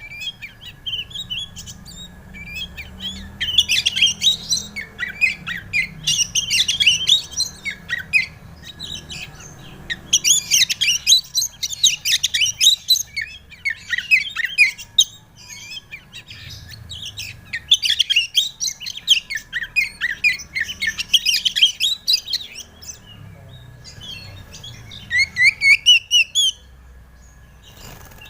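Oriental magpie-robin (kacer) singing: bursts of fast, varied chirps and twitters a second or two long, separated by short pauses, with a run of quick rising notes near the end.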